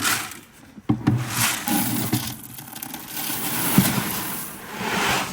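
Dry emu feed poured out of a bucket into a feeder: a couple of knocks, then a steady rushing pour for about four seconds.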